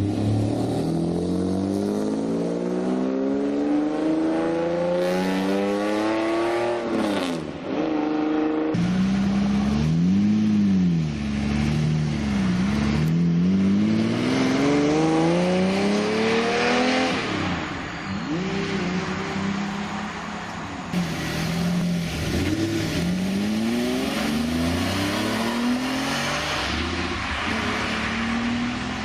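Lamborghini Diablo V12 engine accelerating hard, its pitch climbing long and steadily and dropping sharply at each gear change. The sound cuts abruptly about nine seconds in to another stretch of revving and acceleration, with repeated rises and falls in pitch.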